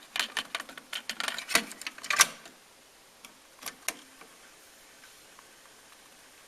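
Pioneer CT-F650 cassette deck being handled and operated: a quick flurry of mechanical clicks and clacks lasting about two and a half seconds, then two more clicks nearly four seconds in.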